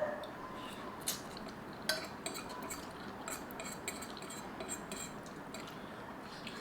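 Eating utensil clinking and scraping against a bowl of instant noodles: a string of short light clicks, the sharpest in the first two seconds, over a steady hiss.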